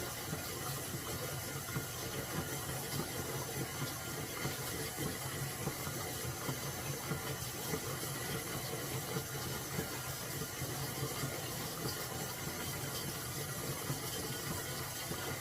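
Kitchen tap running steadily, a continuous rush of water.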